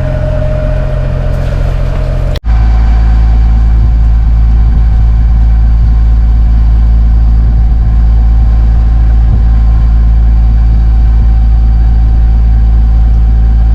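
Sailing catamaran's engine running steadily while motoring, a low, even drone with a faint steady hum above it. It cuts off abruptly about two and a half seconds in and comes straight back louder and deeper.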